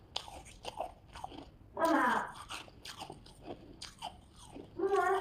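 Close-up crunching and chewing of a hard, crumbly buckwheat chunk: many short, sharp crunches. A short voice sound comes about two seconds in and again near the end.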